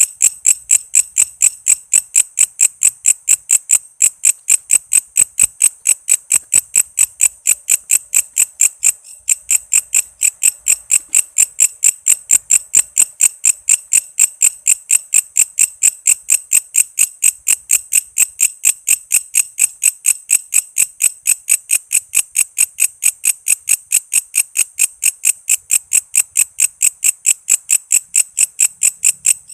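Walang kece, a singing grasshopper-like insect, chirping loudly in an even, fast pulse of roughly four and a half sharp ticks a second, high and shrill, with a brief break a couple of times.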